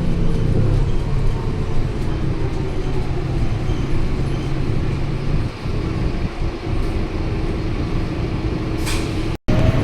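Scania K230UB single-deck bus running steadily, with low engine and road noise. A brief hiss comes near the end, and the sound cuts off abruptly just before the end.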